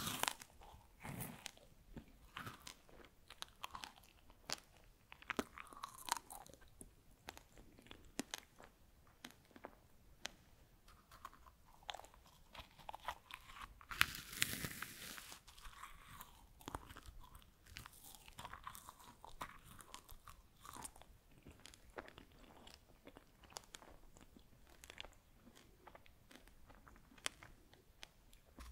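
Freeze-dried strawberries being chewed close to the microphone: a steady run of crisp, light crunching and crackling, with one louder crunch about halfway through.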